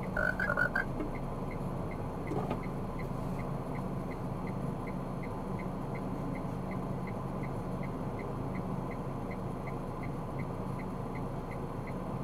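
Steady engine and road noise inside a moving car, with a light, even ticking about three times a second. A few short beeps sound right at the start.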